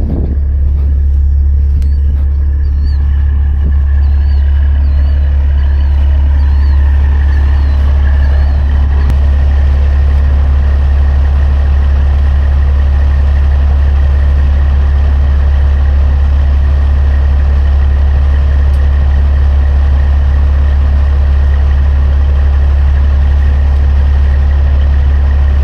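Diesel semi-truck engine idling with a loud, steady low drone.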